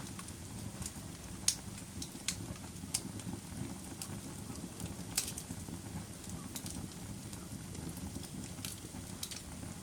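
Campfire burning: a steady low rumble of flames with sharp, irregular crackles and pops. The loudest pops come about a second and a half in and about five seconds in.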